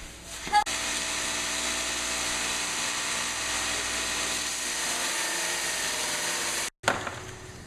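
Steady mechanical whir of a running machine or power tool, starting with a click and held at an even pitch and level, then cutting off suddenly near the end.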